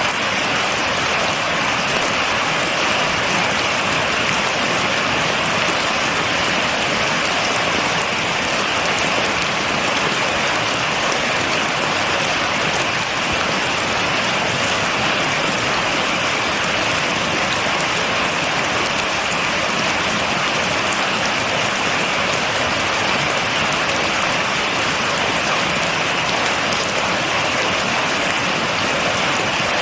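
Steady rain falling without thunder, a dense even hiss of drops with fine patter.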